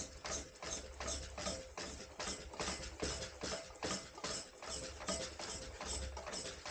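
Electric scooter giving off a repeating sharp click, about three clicks a second, over a low hum.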